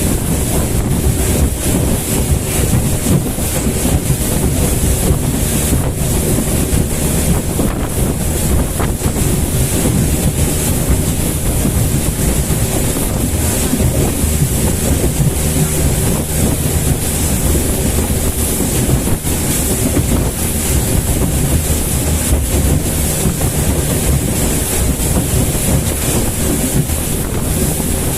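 Motorboat under way at speed: a steady engine drone with water rushing past the hull and heavy wind buffeting the microphone.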